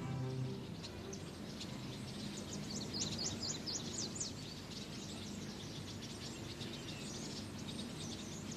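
Outdoor ambience with small birds chirping, a burst of quick high chirps a few seconds in, over a steady low background hum.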